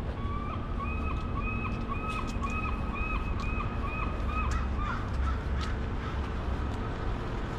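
A bird calling a fast run of about ten short, repeated notes, roughly two a second, which stops a little over halfway through. Under it there is a steady low rumble.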